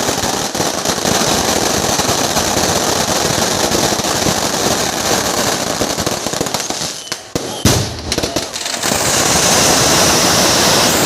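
Fireworks going off in a dense, continuous crackling barrage, with a brief lull about seven seconds in broken by a single loud bang, after which the crackling resumes.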